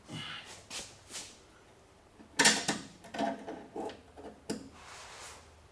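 Scattered short clatters and clunks of parts being handled and moved while working under a car, the loudest about two and a half seconds in.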